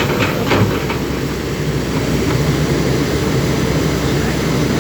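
Backhoe engine running steadily with a low rumble, with a few short clatters in the first second.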